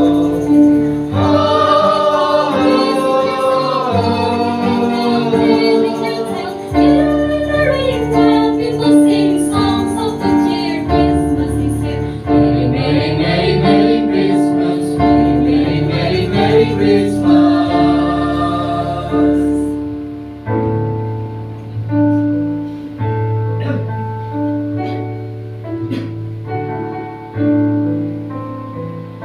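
A choir singing a Christmas song with keyboard accompaniment. The voices stop about two-thirds of the way through, leaving the keyboard playing alone.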